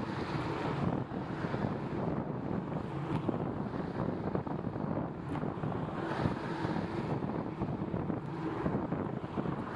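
Steady wind noise buffeting the microphone of a camera on a moving bicycle, mixed with the hiss of tyres on wet pavement.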